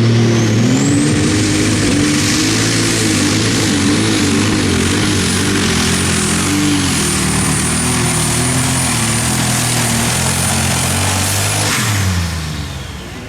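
Turbocharged diesel engine of an Unlimited Super Stock pulling tractor running wide open under load during a pull. A high whine rises in the first second and holds steady while the engine note wavers, then both drop away near the end as the engine comes off the throttle.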